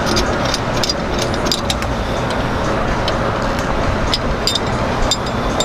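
Small metal clicks and clinks as a stainless hook and shackle are screwed and fitted onto a rope bridle, over a steady rushing background noise.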